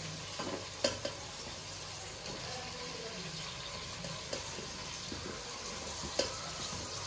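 Onions, tomatoes and freshly added okra frying in oil in a large aluminium pot: a steady sizzle as they are stirred, with a few sharp clinks of the spoon against the pot, the clearest just under a second in and again near the end.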